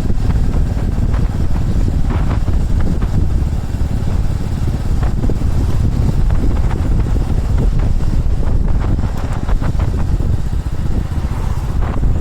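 Motorcycle running steadily on the road, its engine rumble under a steady haze of road and air noise.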